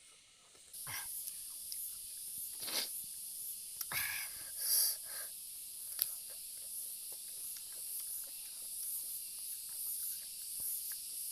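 Close-up eating sounds: chewing and crunching of boiled vegetables, a few louder crunchy bites in the first half and small wet clicks after, over a steady hiss that starts a little under a second in.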